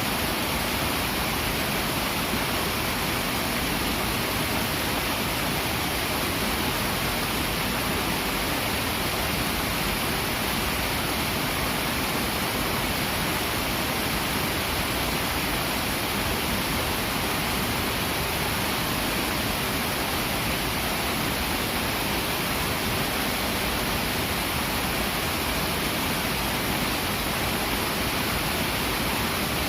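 Swift, clear river flowing, a steady rush of water with no change in level.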